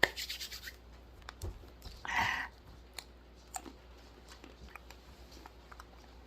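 Dry roasted almonds being bitten and chewed: a rapid run of crunches in the first second, a louder crunch about two seconds in, then scattered small crunching clicks.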